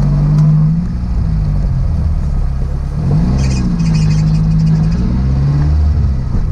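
Renault 5 Alpine Turbo's four-cylinder turbo engine heard from inside the cabin, pulling under load, its revs rising and falling: a dip about a second in, a climb about three seconds in, then another dip near the end. A light rattle sounds about halfway through.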